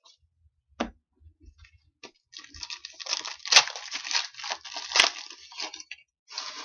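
Trading-card pack wrapper being torn open and crinkled, with two sharp snaps in the middle of the tearing and a short rustle near the end.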